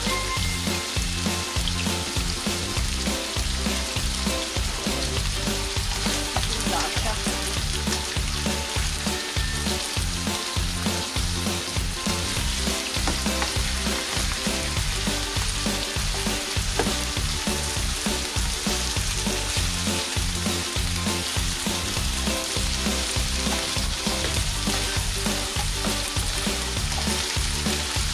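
Food frying in a pan for a chicken curry, with a steady sizzle that does not let up.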